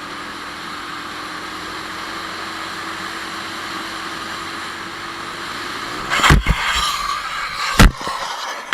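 Steady driving noise from inside a moving car, then a car crash about six seconds in: a loud impact followed by scraping noise, and a second, sharper bang near the end that is the loudest sound.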